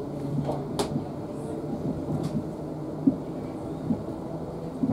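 South Western Railway Class 450 electric multiple unit running at speed, heard from inside the carriage: a steady rumble of wheels on rail with a few sharp clicks and knocks.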